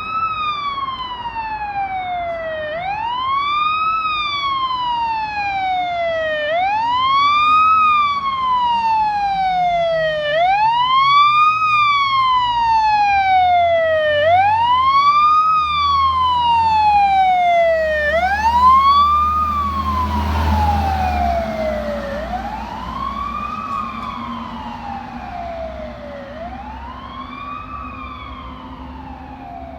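Fire brush engine responding with its siren wailing, a slow rise and fall about every four seconds. Its engine rumbles as it passes about two-thirds of the way through, then the siren fades as the truck drives away.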